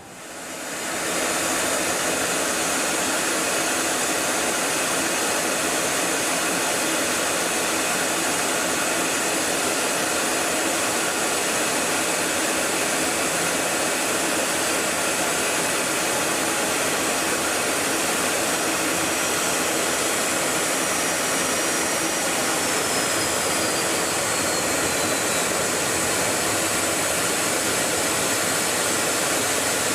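F-35's Pratt & Whitney F135 jet engine running at close range: a steady, loud rush of turbine noise with a high whine in it. A faint high tone slides down in pitch about three-quarters of the way through.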